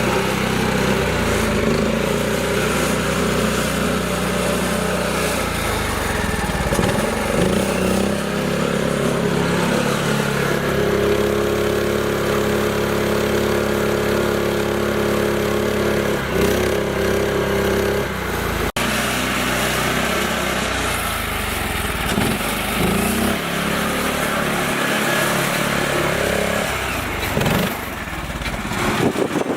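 Mini tractor's small engine running steadily, its pitch shifting a few times, with a brief break about two-thirds through.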